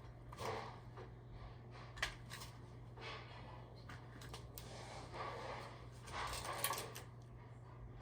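Faint handling noises of a bathroom exhaust fan being fitted: soft rustling and scraping with a few light clicks, the sharpest about two seconds in, over a steady low hum.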